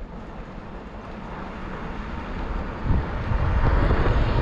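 Wind buffeting the microphone on a moving bicycle. The rushing grows louder about three seconds in, with a heavy, uneven low rumble.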